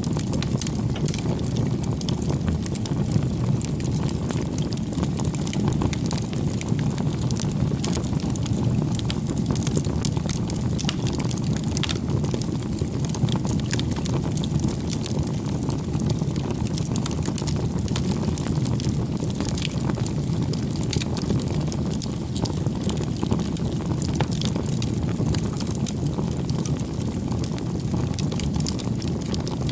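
Wood fire burning steadily: a low rumble of flames with continual small crackles and pops.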